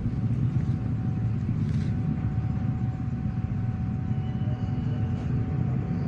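A vehicle engine running steadily, a low rumble with a faint steady whine above it.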